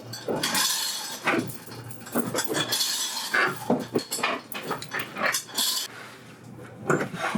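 Repeated metal clinks and clanks, with a few short scraping sounds in between.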